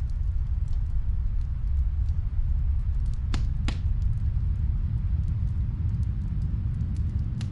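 Steady low rumble of snowstorm wind, with faint crackling from a wood fire: scattered small clicks and two louder pops a little after three seconds in.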